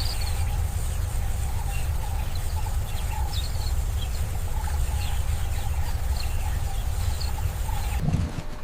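Birds calling and chirping, in many short scattered calls, over a steady low rumble.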